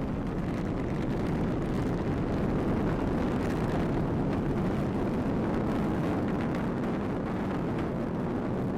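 Atlas V rocket's RD-180 first-stage engine in flight shortly after liftoff: a steady, dense low rumble with no break.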